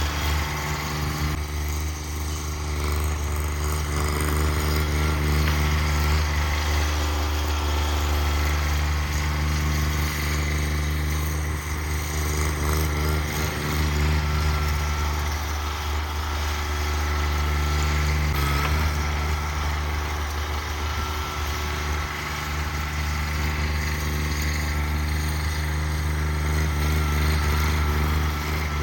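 Cub Cadet 1782 garden tractor's engine running steadily, with slight swells in level.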